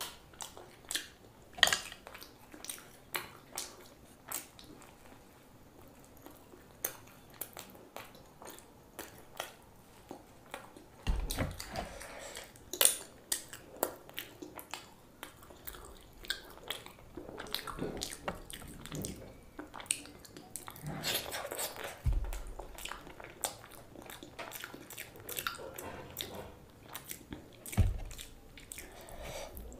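Close-miked eating: chewing and biting with many sharp wet mouth clicks, and a few dull low thumps, about 11, 22 and 28 seconds in.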